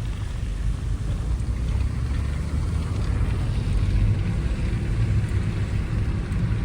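A motor vehicle driving at a steady pace: a continuous low engine and road rumble.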